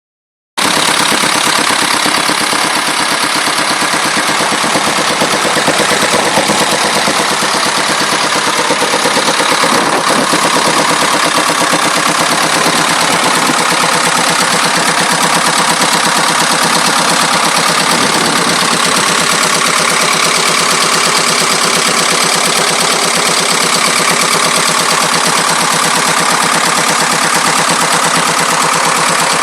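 Land Rover 2.25-litre four-cylinder diesel engine running steadily at idle with a rattling noise over its fast, even beat.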